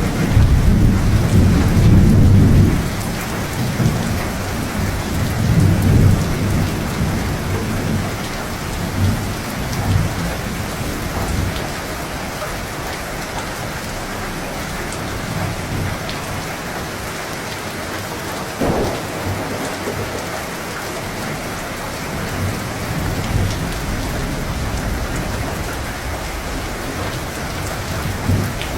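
Steady heavy rain with rolling thunder: a long rumble in the first few seconds, further rumbles around six and ten seconds in, and a sharp crack about eighteen seconds in.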